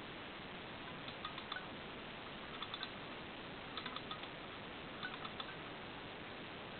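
Light metallic clicking from a 1950s Hoch & Bechmann kiddie carousel: four short clusters of faint ringing ticks about a second and a quarter apart, over a steady hiss.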